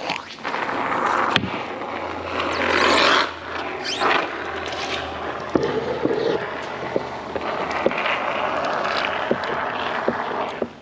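A can of water-resistant spray foam dispensing: a steady spraying hiss with small crackles and clicks as the foam sputters out.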